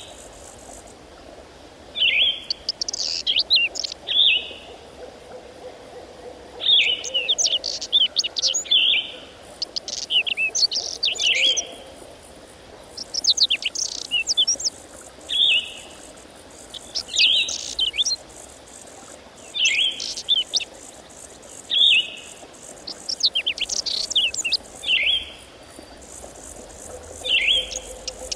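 A songbird singing, repeating short bright phrases of quick sweeping notes every two to three seconds.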